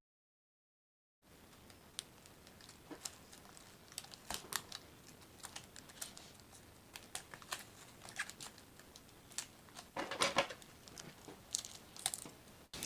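Scattered light clicks, taps and crinkles of used plastic bottles being pressed onto cardboard, after about a second of silence.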